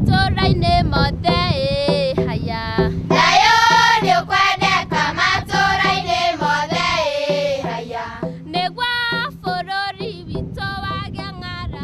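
A group of voices singing a song, the melody rising and falling with wavering held notes, over a low repeating accompaniment.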